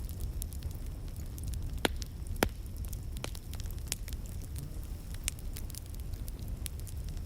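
Wood fire crackling in a fireplace: a low steady rumble of the flames with scattered small pops, and two louder pops about two seconds in.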